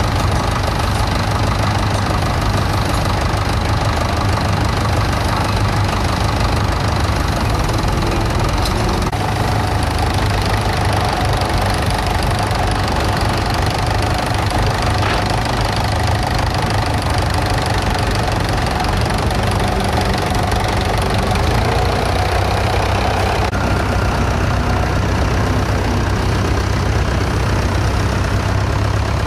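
Vintage tractor engine running steadily under ploughing work, its note shifting slightly about a third of the way in and again near the end.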